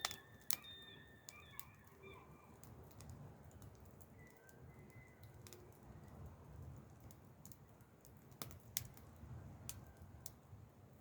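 Wood campfire crackling: irregular sharp pops and snaps, a few of them louder, over a faint low rumble.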